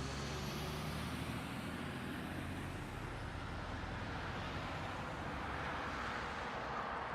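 Steady engine and road noise of a moving motor vehicle, with a faint high whine that fades out about three seconds in.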